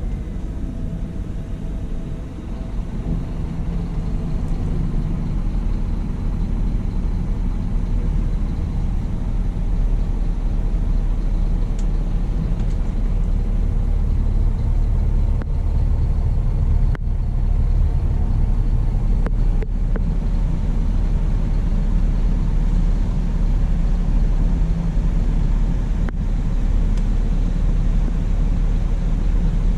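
Scania-chassis Irizar i8 coach running steadily: a continuous low engine rumble with road noise, its level and pitch holding even throughout.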